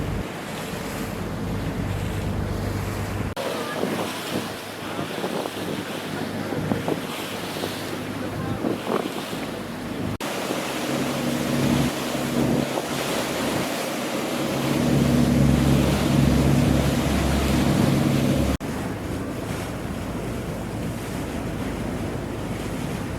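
Wind buffeting the microphone over harbour water noise, breaking off abruptly three times. In the middle part a boat's engine runs steadily with a low hum.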